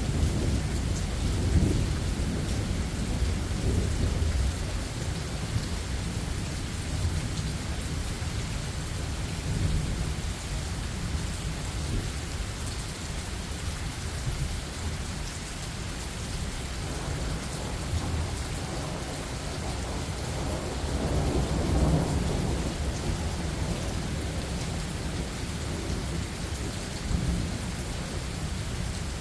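Steady rain hissing, with low rolling thunder that swells near the start and again about two-thirds of the way through.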